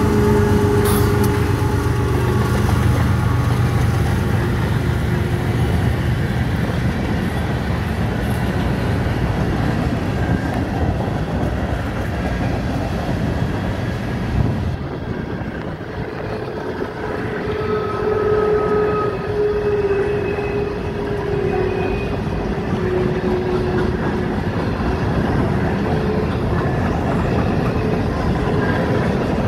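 Freight train rolling past close by. A mid-train CSX diesel locomotive runs as it goes by in the first few seconds, then comes the steady rumble and rattle of freight cars passing over the rails. Wheels squeal thinly now and then, mostly in the second half.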